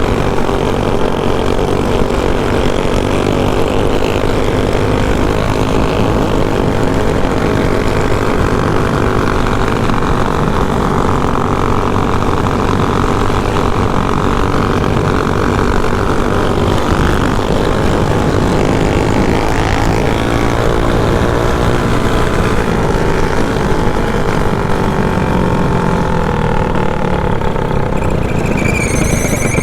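Small single-cylinder mini bike engine running under a rider at speed, its pitch rising and falling with the throttle. A high steady tone comes in near the end.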